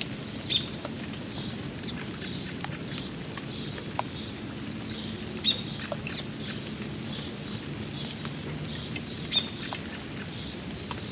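Steady rain pattering by a backyard pond. A bird repeats a short high call about twice a second, and three loud sharp taps stand out, about half a second in, at five and a half seconds and near nine and a half seconds.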